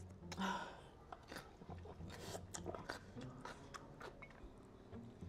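Close-up biting and chewing of fried chicken: one louder crunching bite about half a second in, then scattered small crisp crunches and mouth sounds.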